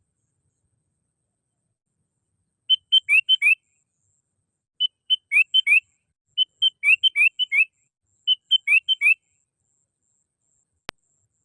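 Sooty-headed bulbul (kutilang) song: after a short silence, four quick phrases of clear whistled notes, several rising, with brief pauses between them. A single faint click near the end.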